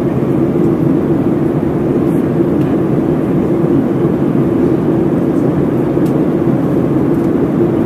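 Steady cabin noise of a Boeing 737-700 in flight, from its CFM56-7 turbofan engines and rushing air, heard from inside the cabin. The noise is even and unchanging, deepest in the low middle range.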